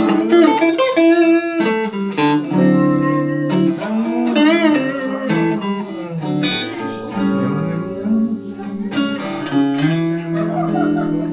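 Electric guitar, a Telecaster played through a Roland JC-120 amp, playing a slow blues lead fill of single notes with string bends. A wide vibrato comes about halfway through.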